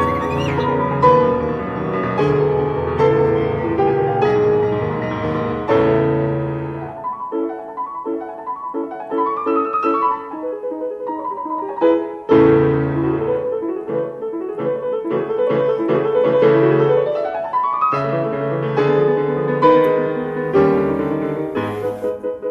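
Piano music, with quick rising runs of notes; the low bass notes drop out for a few seconds in the middle.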